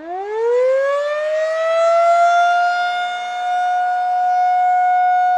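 Outdoor warning siren winding up: its wail climbs steeply in pitch over the first second or so, then holds a steady, loud tone.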